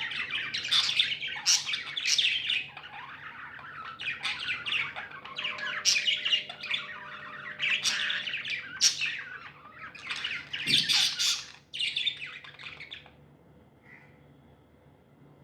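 Pet budgies (budgerigars) chattering, with rapid chirps, warbles and squawks that die away near the end, leaving one faint call.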